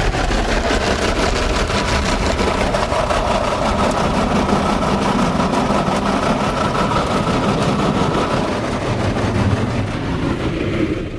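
Car wash top brush on a Belanger Freestyler giving out a loud, blaring drone like a badly sounding old electromechanical horn, over the rushing noise of the wash. The horn-like tone fades out a couple of seconds before the end.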